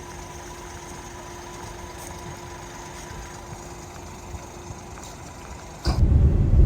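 Car engine idling, heard from inside the cabin as a steady hum. Near the end a much louder low rumble starts suddenly.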